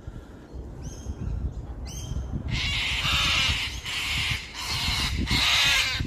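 Birds calling: two short calls in the first two seconds, then a run of loud, harsh screeches, each half a second to a second long, from the birds that are attacking the climbing rope.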